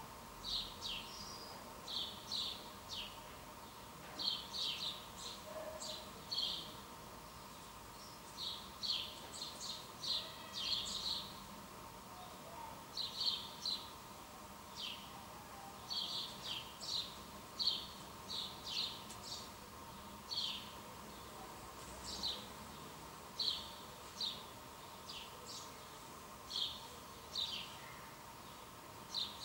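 Birds chirping: short, high chirps in quick groups of two or three, repeating every second or so, over a faint steady hum.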